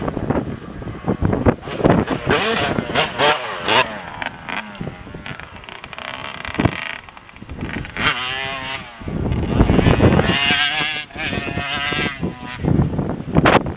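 Motocross bike engine revving up and down as it is ridden, its pitch rising and falling again and again, with a long climbing rev about eight seconds in.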